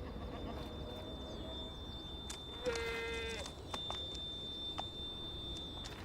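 An Alpine ibex bleats once about halfway through, a short, level call lasting under a second. A few sharp clicks of hooves on the rock of the dam wall come before and after it.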